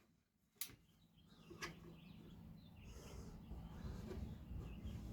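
Nearly quiet: two faint clicks in the first two seconds, then a low steady hum that grows slightly louder toward the end.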